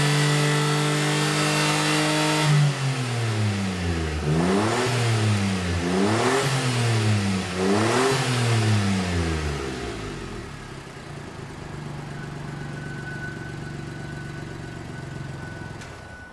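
The 660 cc turbocharged three-cylinder engine of a 2017 Suzuki Every Wagon, heard through a one-off cat-back exhaust with a single silencer. It is held at raised revs, drops, is revved up and let fall three times, then settles to a steady idle about ten seconds in.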